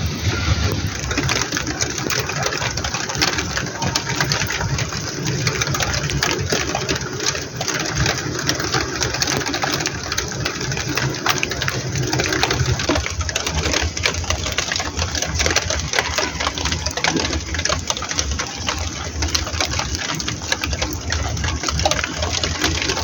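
Steady rain falling, a dense patter of many small drops striking surfaces, over a low rumble.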